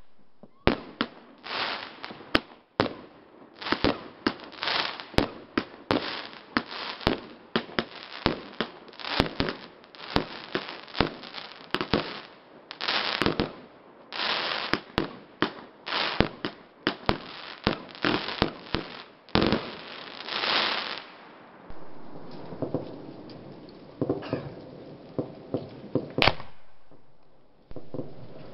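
Aerial fireworks bursting in a rapid barrage of overlapping bangs, thinning to a few scattered bangs for the last several seconds.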